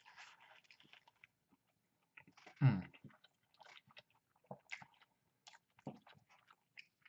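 A person biting into a crispy fried chicken sandwich and chewing, with soft crunches and wet mouth clicks. About two and a half seconds in there is a short, low vocal sound.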